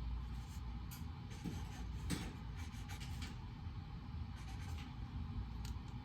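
Writing on paper: a scatter of short scratching strokes, busiest about two to three seconds in, over a steady low hum of room noise.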